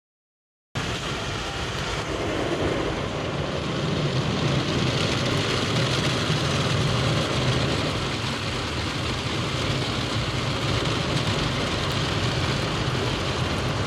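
Automatic car wash running, heard from inside the car: a steady rushing, rumbling noise that starts abruptly just under a second in.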